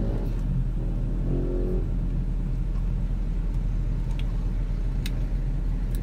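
Steady low rumble of a car idling, heard from inside the cabin. A short hummed 'mm' comes twice in the first two seconds, and a few faint clicks come near the end.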